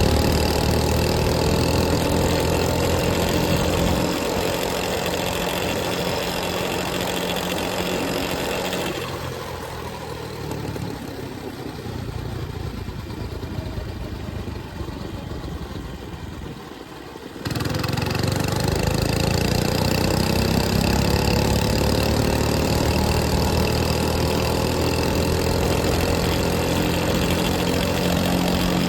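105cc mini bike engine running as it is ridden, its pitch falling off the throttle and then rising again. For several seconds in the middle it is quieter, then it comes back suddenly at full level.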